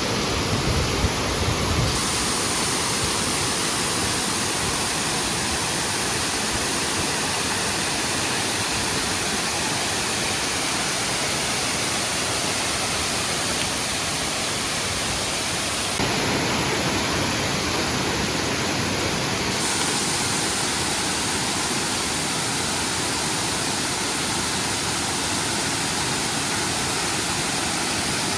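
Steady rushing of a waterfall, water pouring off a cliff beside a running river. The sound shifts abruptly a couple of seconds in and again about sixteen seconds in.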